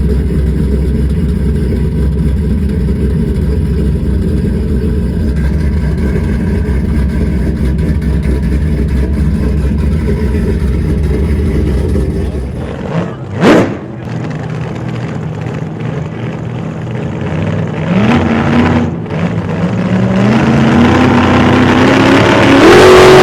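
A Hemi V8 pickup engine rumbling steadily, with a quick sharp rise and fall in pitch about thirteen seconds in, then revving up with its pitch and loudness climbing over the last few seconds.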